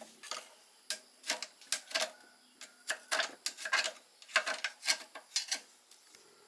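Irregular light clicks and knocks of hard objects, about fifteen of them, some in quick pairs, stopping a little before the end.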